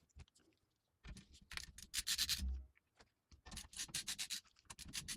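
Screwdriver turning screws out of a metal PC case's GPU cage: faint runs of rapid scratchy ticks, in two spells with a short pause between them.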